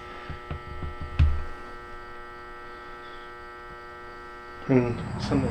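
Steady electrical hum made of several fixed tones, with a few light knocks in the first second and a half, the strongest a dull thump about a second in. Near the end a louder, wavering pitched sound starts up over the hum.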